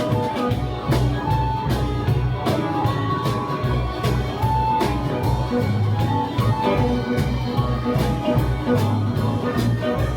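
A live blues-rock band playing an instrumental passage. Guitar carries held lead notes over bass and drums, with a steady beat.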